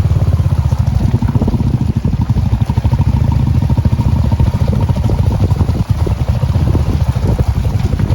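Royal Enfield Hunter 350's single-cylinder engine running steadily as the motorcycle is ridden, a loud, rapid, even beat of exhaust pulses.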